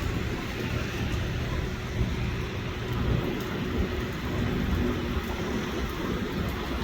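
Steady rumble and hiss of traffic passing on a rain-wet road.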